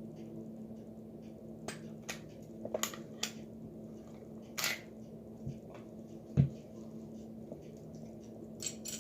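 Sharp metallic clicks and small knocks of a Baby Eagle 9mm pistol being field-stripped, the slide and recoil spring parts handled. There is a slightly longer scraping click about four and a half seconds in and a duller knock of a part set down at about six and a half seconds, over a steady low hum.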